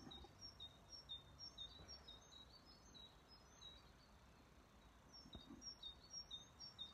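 Birds chirping faintly: a run of short, high chirps that pauses around the middle and starts again near the end, over a soft outdoor background hiss.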